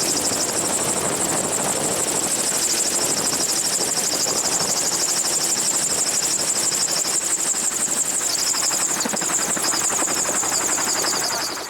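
Gyrocopter running steadily, heard from the open cockpit, with a fast, even beat throughout.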